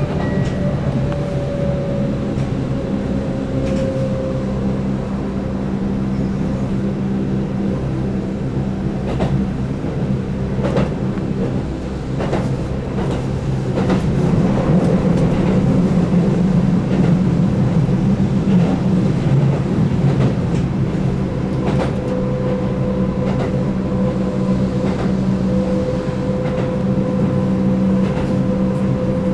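Keihan 8000 series electric train running at speed, its DC traction motors humming and whining under field-added excitation control, with repeated clicks from rail joints. A motor tone falls a little over the first few seconds, and a steady higher tone comes back later on.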